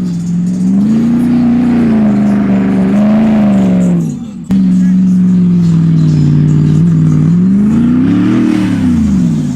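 Truck engine revving hard through a loud exhaust, its pitch swinging up and down. The sound drops briefly about four seconds in, then comes straight back.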